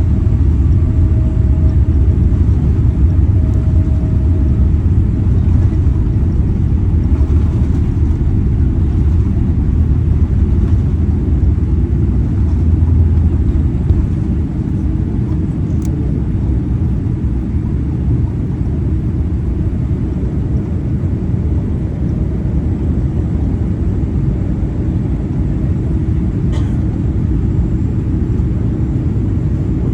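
Boeing 787-8 Dreamliner heard from inside the passenger cabin during departure: a loud, steady, deep rumble of the engines and airframe. It drops slightly in level about halfway through.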